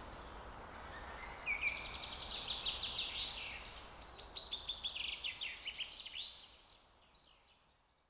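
Birds singing: quick runs of short chirps sliding downward in pitch, starting about a second and a half in and fading away after about six seconds, over a faint steady hiss.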